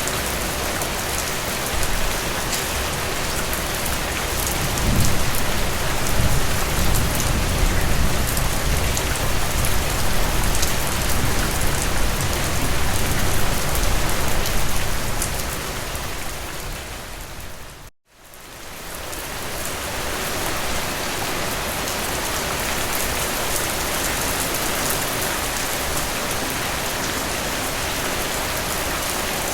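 Heavy rain falling steadily, a dense even hiss of drops. A low rumble swells in about five seconds in and dies away by about fifteen seconds. Near the middle, the rain fades out to a moment of silence and fades back in.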